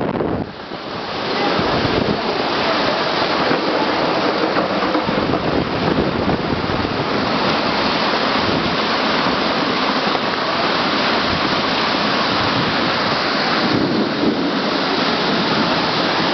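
Torrential rain and strong squall-line winds making a dense, steady hiss, with a brief dip about half a second in.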